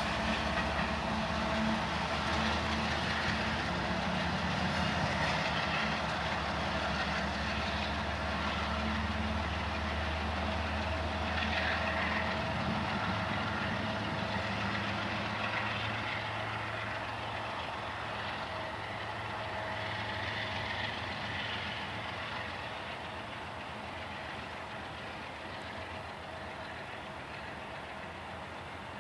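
Diesel train engine running with a steady low drone, slowly fading away over the last ten seconds or so.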